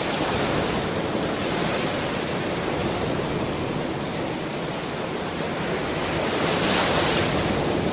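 Ocean surf washing in a steady wash of noise, with a wave swelling a little louder near the end.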